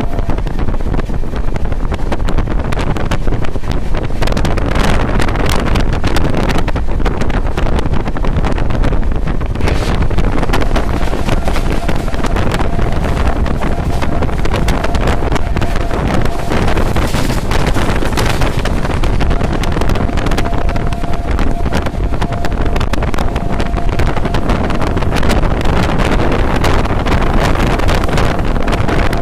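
The 11020 Konark Express running at speed, heard from an open window or door: wind buffeting the microphone over a steady rumble with a constant clatter of wheels on the track. A faint steady whine comes and goes from about ten seconds in.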